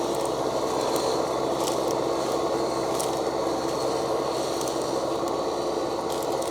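Massey Ferguson 6713 tractor engine running steadily while pulling a five-shank furrowing implement, with a few faint ticks over the even engine note.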